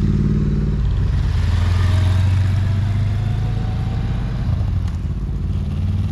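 Motorcycle engine running steadily while riding at a constant speed.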